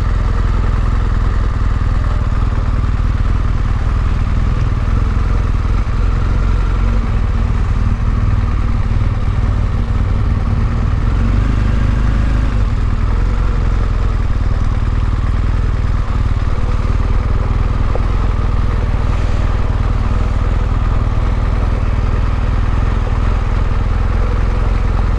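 Motorcycle under way at a steady pace: engine running with wind and road noise, a steady low rumble that holds even throughout.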